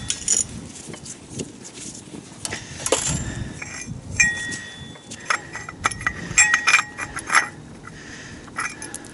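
Metal hand tools and parts clinking and knocking irregularly, with a few short ringing metallic tones through the middle.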